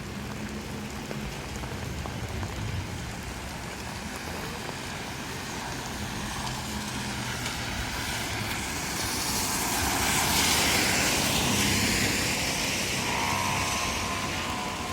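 A car going past on a rain-wet street: a steady engine hum under a hiss of tyres through water that swells, is loudest about two-thirds of the way in, and fades again.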